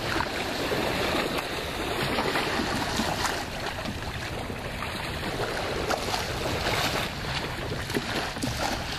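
Ocean surf washing onto a beach, heard as a steady rushing noise with wind.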